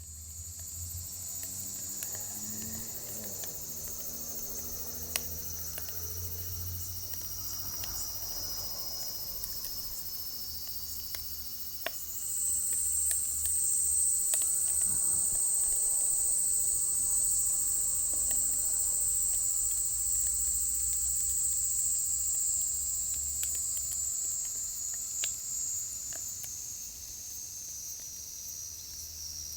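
A steady, high-pitched chorus of insects that shifts up in pitch and gets louder about twelve seconds in. Under it, a wood fire crackles with sparse sharp pops.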